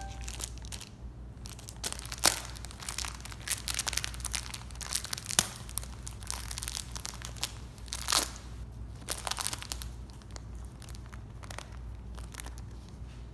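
Irregular crunching and crinkling with many sharp clicks. They come thick for most of the time and thin out near the end.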